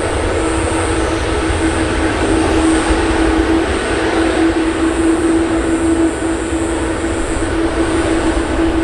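Jet engines of an All Nippon Airways Boeing 777-200 running steadily: a loud, even rush with a constant low hum.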